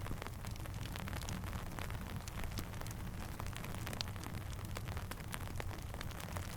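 Steady rain with a low, even rumble underneath and many scattered sharp clicks and pops, as of raindrops and a crackling campfire.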